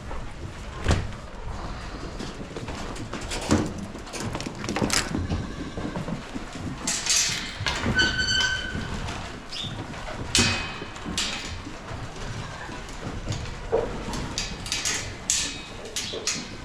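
Irregular knocks, clatter and scuffing of hands-on barn chores, with a short high squeak about eight seconds in.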